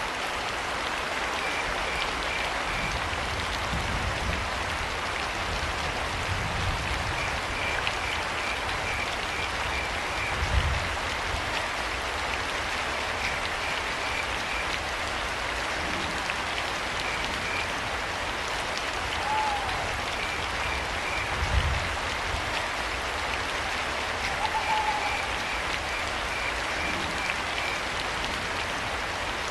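Steady rain falling, with crickets chirping in short repeated trains of quick high pulses every few seconds. Two brief low rumbles, the loudest moments, come a third and two thirds of the way through, and two short tonal calls sound near the middle and later on.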